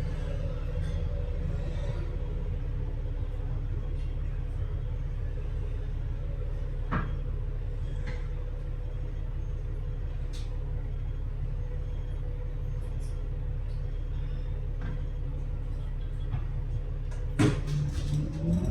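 Double-decker bus engine idling with a steady low rumble, with a few sharp clicks and rattles. Near the end comes a loud clack, and the engine note begins to rise as the bus pulls away.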